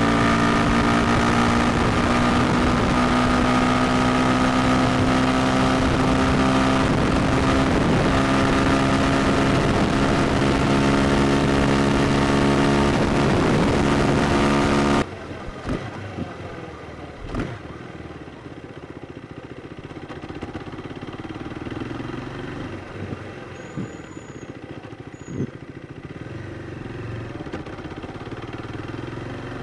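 KTM Duke 390's single-cylinder engine held at high, steady revs. About halfway through, the sound cuts abruptly to a much quieter, lower-revving engine with a few knocks.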